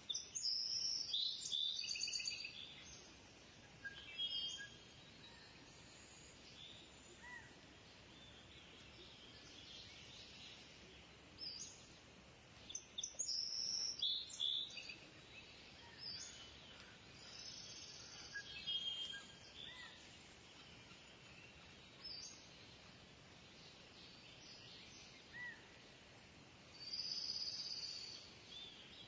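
Kingfisher calling in bursts of high, rapid calls, loudest in the first couple of seconds, again around the middle and near the end, with shorter calls between, over a faint steady hiss.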